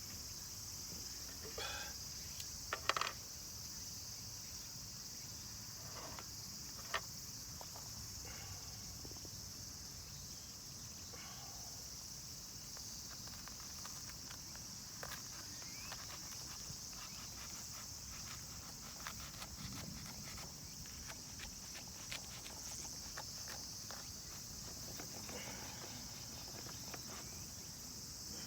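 A steady, high-pitched chorus of crickets or other insects chirring in the grass, with scattered light clicks and knocks of something being handled, a couple of sharper ones about three and seven seconds in.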